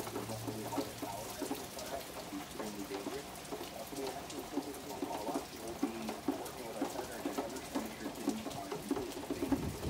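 Rain falling steadily during a tropical storm, with many small drops ticking on nearby surfaces.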